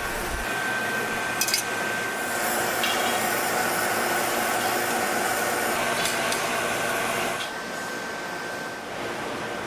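Steady rushing hiss of glass-studio gas burners, with a faint high whine, broken by a few light clinks of glass on glass or metal.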